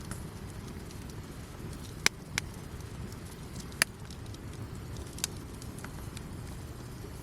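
Wood campfire crackling: scattered small ticks and a few sharp pops, the loudest about two and four seconds in, over a steady low rumble.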